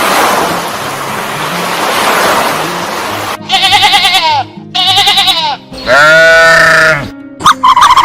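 Three bleating animal calls with a wavering pitch, each with a clear pitch and overtones, starting a little over three seconds in; the third is the longest. Before them is a loud, noisy rushing sound.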